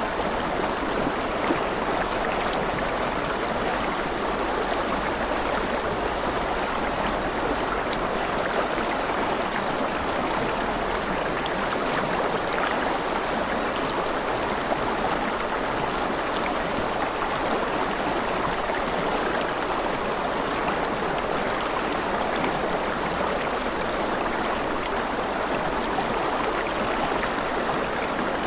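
A rushing river flowing steadily, a continuous even rush of water with fine splashing detail.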